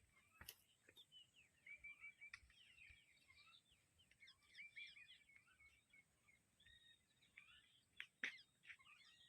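Faint chirping of several small birds, many short high calls overlapping throughout. A sharp click sounds about half a second in and a louder one near the end.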